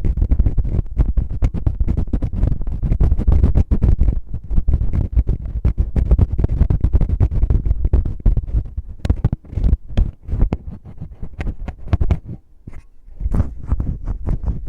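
Fingers rubbing, scratching and tapping directly on a microphone's ears in rough finger ear-cleaning ASMR: a loud, dense close-up rustle with rumbling thuds and sharp clicks, easing briefly about twelve seconds in.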